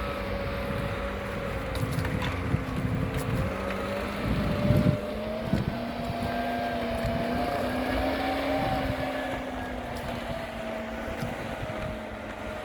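An all-terrain vehicle's engine running steadily, its pitch drifting slowly up and down, with a few dull knocks and thuds in the middle.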